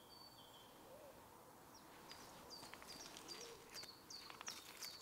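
Faint woodland birdsong: a bird repeats short, high chirps about two a second, starting about two seconds in, with a few faint clicks among them.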